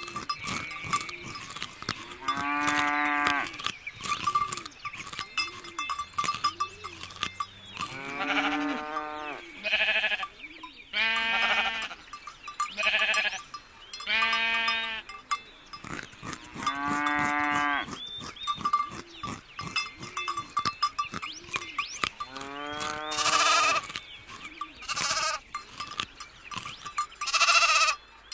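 Sheep and lambs bleating: about nine quavering calls spread through, some drawn out and some short, over a faint steady bell-like ringing.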